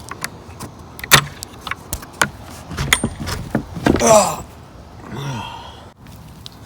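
Scattered clicks and knocks, then a loud creaking squeak that bends in pitch about four seconds in and a fainter one a second later, typical of a door or gate being opened on its hinges.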